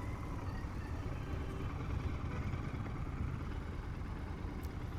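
Steady low rumble of motor vehicles on the road: engine and traffic noise heard while riding through traffic.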